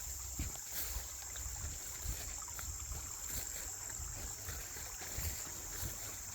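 Steady high-pitched chorus of crickets, with a low, uneven rumble underneath.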